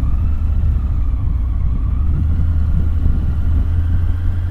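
Steady low rumble of wind rush and a Triumph Tiger 900's inline-triple engine at riding speed, heard from the moving motorcycle, with a faint wavering whine above it.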